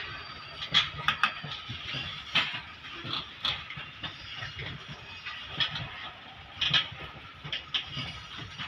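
A loaded coal goods train rolling past: a steady rumble and rushing noise from the wagons, with irregular sharp clicks and clanks as their wheels cross the rail joints.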